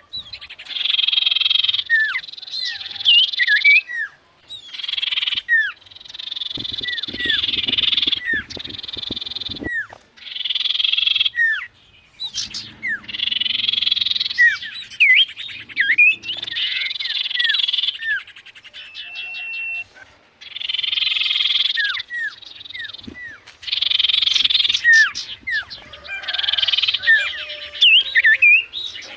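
Sirtu bird singing: buzzy chattering phrases about a second or two long, repeated over and over, with short whistled notes sliding down in pitch between them.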